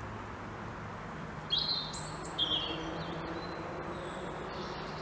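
A songbird calling: a short run of high chirps and quick sliding notes about a second and a half in, then a faint thin note later, over a faint steady low hum.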